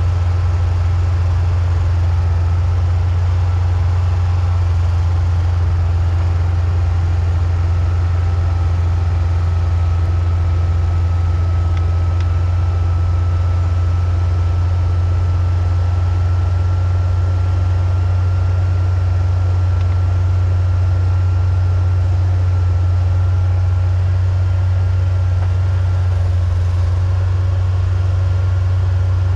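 A vehicle engine running steadily, a strong low drone at even loudness throughout, with a faint thin whine above it that rises slightly in pitch.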